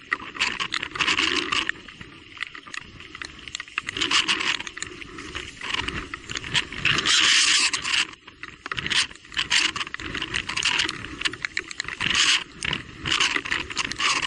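Electric mountain bike riding over a wet, rough trail: tyre noise on the ground and the bike rattling, coming in irregular surges with many clicks.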